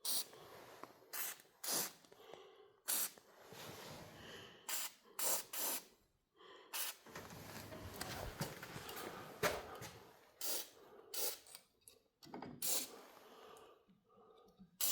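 Spray can of white lithium grease fired through its straw nozzle in about a dozen short hissing bursts, each a fraction of a second, spaced irregularly.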